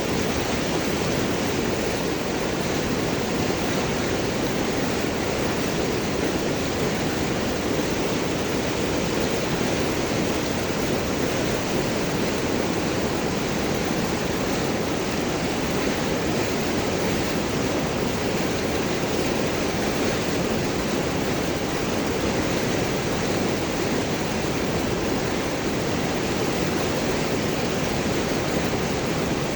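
River water rushing and gurgling over large rocks, a steady, unbroken flow.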